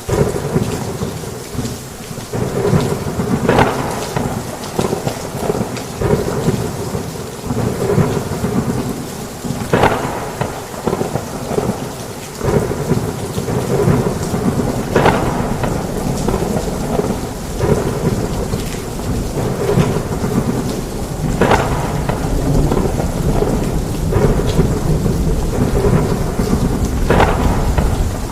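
Heavy rain falling steadily with low rolling thunder underneath, and a sharper crack or spatter standing out every five or six seconds.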